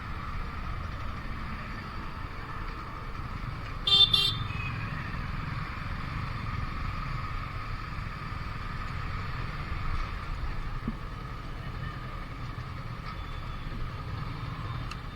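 Steady road and wind noise of a motorcycle on the move, with one short, high vehicle horn toot about four seconds in.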